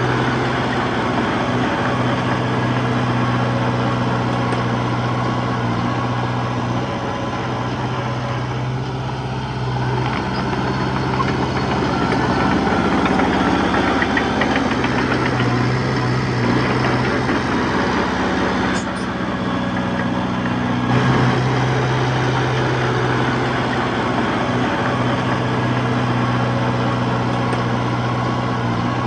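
Heavy diesel engine of earthmoving machinery running under changing load, a steady low hum that grows louder and rougher around the middle and again a little later.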